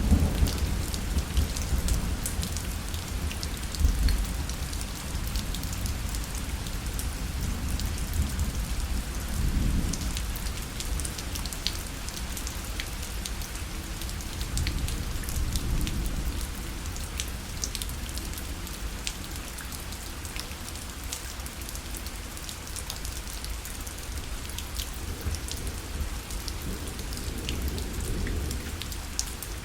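Steady rain falling on a parasol, individual drops tapping sharply against the fabric over a constant patter. Underneath runs a low rumble that swells several times.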